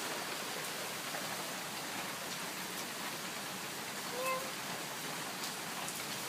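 Steady hiss of heavy typhoon rain, with one short pitched call about four seconds in.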